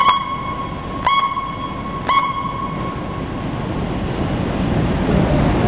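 Elevated rapid-transit train approaching the platform: a bell-like ding sounds three times about a second apart, then the rumble of the train grows steadily louder.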